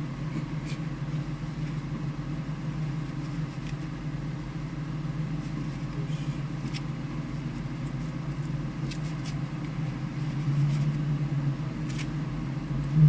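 A car engine idling steadily, a constant low drone with no revving, with a few faint clicks.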